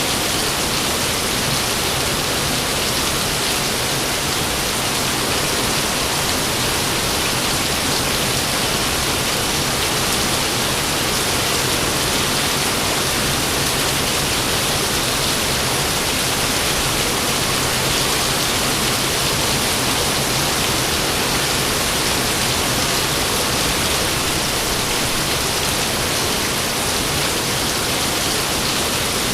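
Steady rain falling, an even hiss that holds the same level throughout with no thunderclap.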